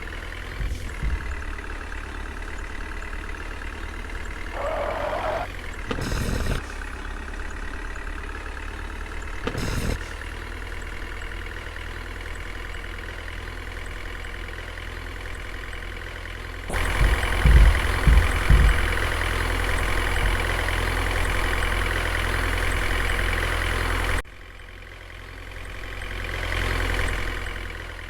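Heavy diesel engine running steadily. Past the middle it turns louder and noisier for about seven seconds, with a few heavy thumps at the start of that stretch, then drops back abruptly and swells briefly again near the end.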